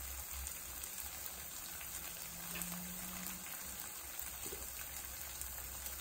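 Cheese slice frying in a non-stick frypan over a portable butane stove burner: a steady, faint sizzle and hiss.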